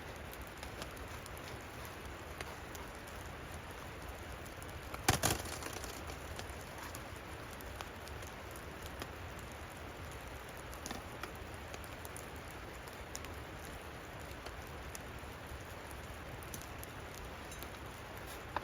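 Steady patter of falling snow on a shelter, with faint scattered ticks, and one sharp crack about five seconds in.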